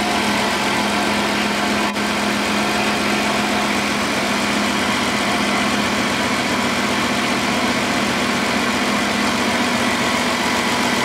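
2006 Dodge Caravan's 3.3-litre V6 idling steadily, firing on all cylinders despite a stored cylinder-one misfire code, which the mechanic takes for an intermittent misfire. One short click about two seconds in.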